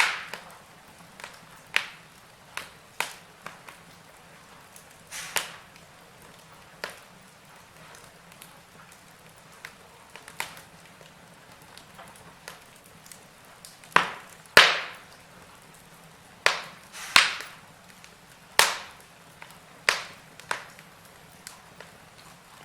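Wood fire crackling in a fireplace: irregular sharp pops and snaps over a faint steady hiss, with a run of louder pops in the second half.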